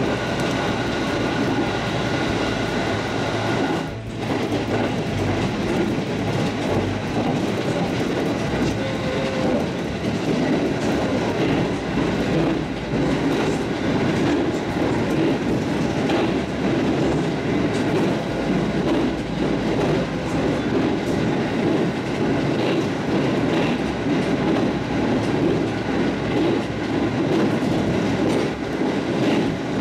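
Electric train running at speed, heard from the front of the car: a steady rumble with wheels clicking over the rail joints, partly while crossing a steel truss bridge.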